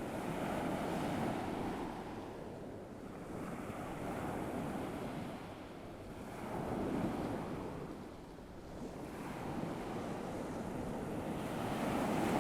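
Ocean surf: waves washing in and out on a shore, swelling and fading in slow surges a few seconds apart.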